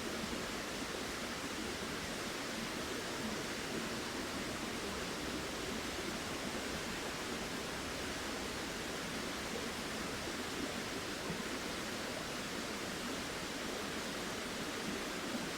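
Steady, even rush of moving water.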